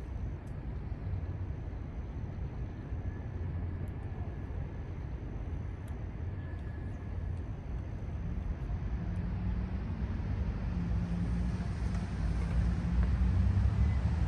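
Low, steady rumble of vehicle traffic that grows louder in the second half, as an engine hum comes up.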